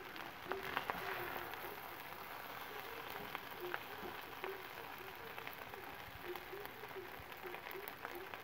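Fried rice sizzling and crackling in a hot cast-iron pan, a steady hiss full of small pops. A few louder knocks and scrapes come about a second in as it is stirred.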